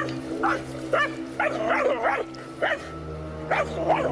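A dog barking repeatedly in short, sharp barks, two or three a second, with a brief pause a little before the end.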